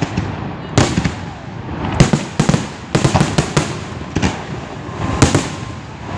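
Large aerial fireworks display: repeated booms of shell bursts in irregular clusters, with crackling between them. Bangs come about a second in, around two seconds in, in a quick run around three seconds in, and again past five seconds.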